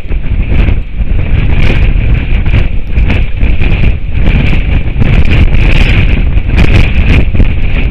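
Strong wind buffeting an outdoor camera microphone, a loud, gusty rumble with rushing hiss that rises and falls throughout.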